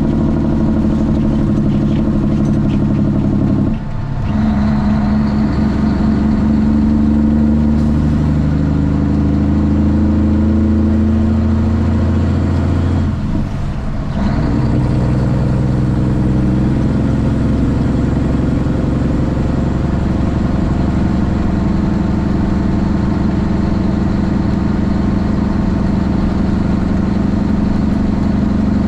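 Straight-piped Cummins ISX inline-six diesel in a Kenworth T800 semi truck running under way. The exhaust note is steady, and it dips briefly twice, about 4 and 14 seconds in, before picking up again at a changed pitch.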